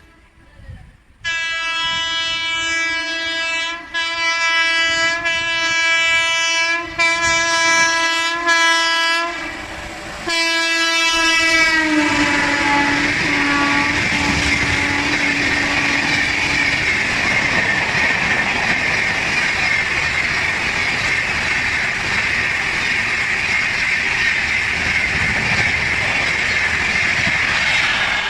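Electric locomotive's horn sounding a long blast, broken briefly three times, then a second blast whose pitch drops as the locomotive passes. It is followed by the steady rush and wheel clatter of the train running past at speed.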